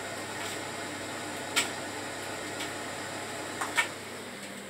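Whirlpool 11 kg washing machine running with its drum spinning: a steady whirring noise with a few sharp clicks, two of them louder, about a second and a half and nearly four seconds in.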